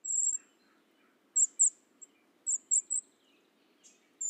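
Brown creeper giving very high, thin calls. A drawn-out note opens, two quick notes follow about a second and a half in, three more come around two and a half to three seconds, and another long note sounds near the end. Faint low background noise from the field recording runs underneath.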